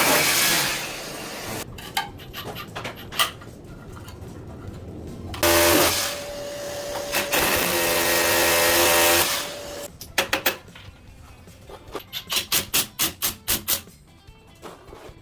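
A handheld electric power tool runs in two bursts, one at the start and a longer one of about four seconds in the middle, with a motor hum under a harsh grinding noise. Between the bursts come scattered knocks and clicks, and a quick run of sharp taps follows near the end.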